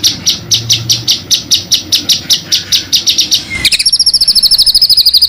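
Small songbird singing: a string of sharp, evenly repeated high notes, about seven a second, that breaks off abruptly about three and a half seconds in and gives way to a much faster, long rolling trill.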